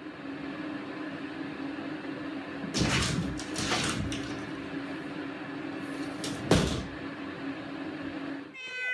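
A few rattling knocks: two clattering ones about three and four seconds in and a sharp one a little after six seconds, over a steady low hum. A cat's meow starts near the end.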